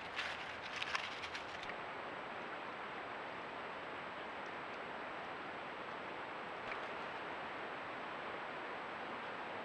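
Steady outdoor hiss with a few short rustles and clicks in the first second or two.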